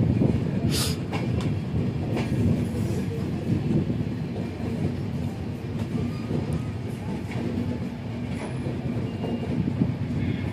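Train running on track: a steady low rumble of wheels on rail, with a few sharp clicks over the rail joints.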